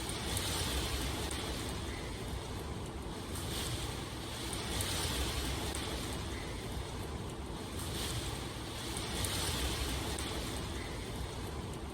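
Steady rushing water ambience, a dense even hiss that swells and eases every few seconds.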